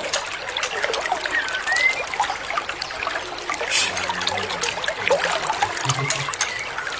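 Water trickling steadily, with scattered short bird chirps and brief whistles over it and a short buzzy call about four seconds in.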